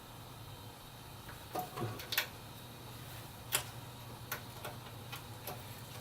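Small scattered clicks and taps of plastic front-panel connector leads being handled and fitted onto motherboard header pins, the loudest cluster about two seconds in, over a faint low steady hum.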